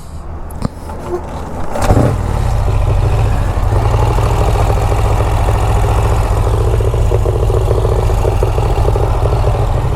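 Motorcycle engine started about two seconds in, then idling steadily.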